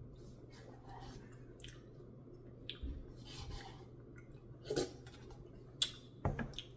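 A person chewing a mouthful of ice cream Blizzard with peanut butter cup chunks: faint wet mouth sounds with scattered soft clicks and smacks, over a low steady hum.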